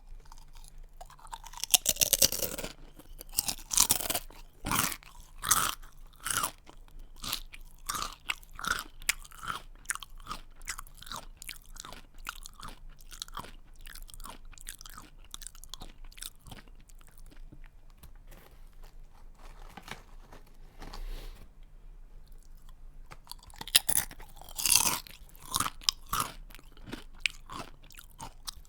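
A person biting into a crunchy snack and chewing it close to the microphone. Loud crunching bites come about two seconds in and again near the end, each followed by a steady run of softer, rhythmic crunches as the snack is chewed down.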